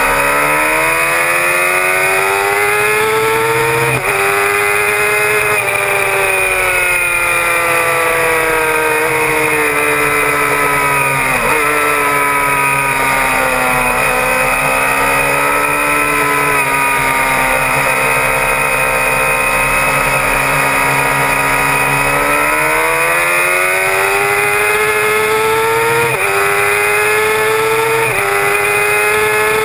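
Suzuki GSX-R750 K6 inline-four sport bike engine at racing speed, heard from a camera mounted on the bike. The revs climb and snap back with an upshift about four seconds in and twice more near the end; in the middle the engine note falls and holds lower for about ten seconds before climbing again.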